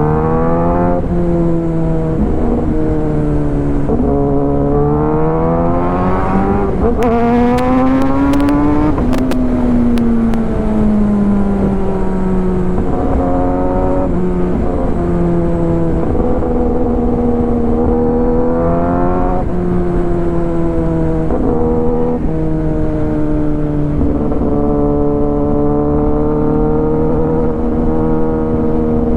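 Kawasaki ZX10R's inline-four engine through an Arrow full exhaust system, revving up and shifting up several times; the note climbs and then drops sharply with each change. Between changes it holds a steadier note. A few sharp clicks come about seven to ten seconds in.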